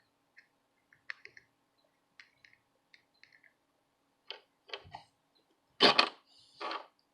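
Light clicks and taps of small hand tools on a workbench during soldering work, with a few louder knocks and scrapes in the last three seconds, the loudest a double knock about six seconds in.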